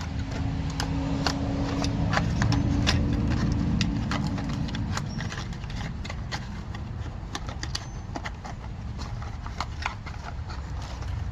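Irregular sharp clicks and taps of tools and parts being handled and put away, over a low hum that fades out about five seconds in.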